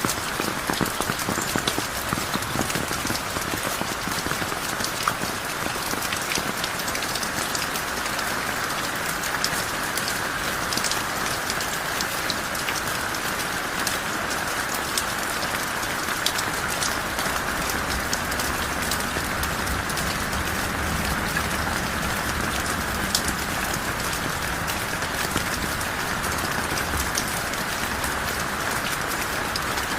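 Heavy rain falling steadily, with the patter of individual drops. A low rumble joins in about halfway through and fades near the end.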